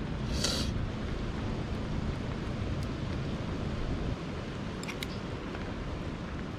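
Steady low rumble of wind buffeting the camera microphone, with a brief rustle just after the start and a few sharp clicks about five seconds in.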